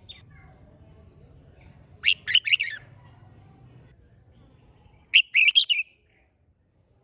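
Red-whiskered bulbul singing two short, loud warbling song phrases, one about two seconds in and another about five seconds in.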